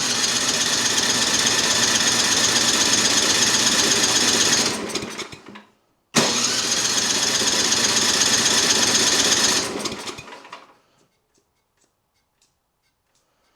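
Snowblower engine cranked over twice, about five seconds each time with a short pause between, each time winding down without catching. The engine, just primed with the choke on, fails to fire after its carburetor rebuild; the owner suspects not enough fuel is getting down to the carburetor.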